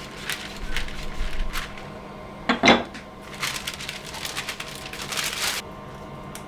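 Kitchen worktop handling: a few light clicks, a sharp knock about two and a half seconds in, then about two seconds of crinkling that stops abruptly, typical of baking paper being handled and peeled back from rolled-out mince.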